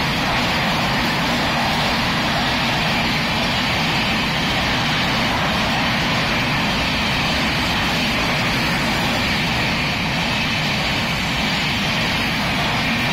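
Passenger express train's coaches running past at speed close by: a loud, steady rush of wheels on rail and air.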